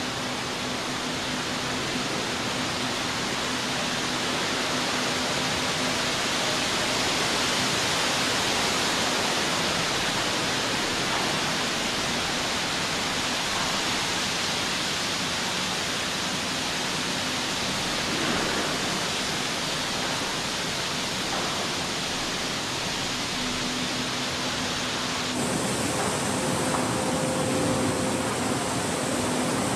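Steady rushing tyre and wind noise of a car being driven, with a faint low hum underneath. Its character changes abruptly near the end, when a faint higher hum comes in.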